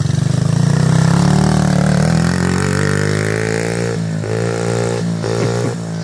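Small dirt bike engine running close by at low to moderate throttle, with the throttle briefly backed off and opened again a few times in the second half.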